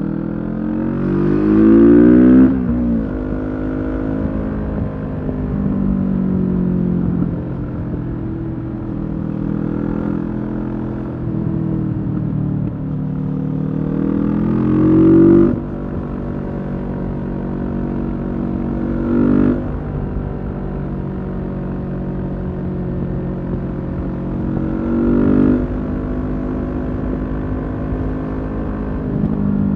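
Kawasaki Z650's parallel-twin engine through a Leo Vince EVO Carbon aftermarket exhaust, under way and accelerating. The revs climb and then drop off abruptly four times: twice after long pulls near the start and in the middle, and twice after shorter bursts later on.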